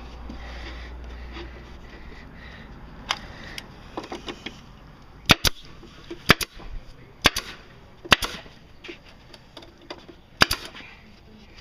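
A staple gun firing into the new seat wood: about six sharp snaps, roughly a second apart, in the second half, with fainter clicks and handling noise between.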